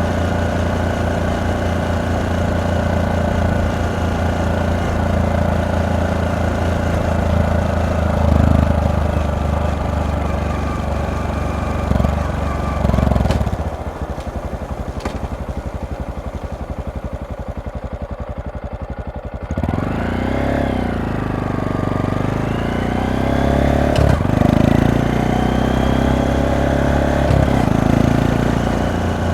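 Honda Monkey 125's single-cylinder four-stroke engine and exhaust running while riding, with a few short blips of revs, then dropping to an even idle for several seconds about halfway through. It then pulls away, the revs rising and falling through the gears.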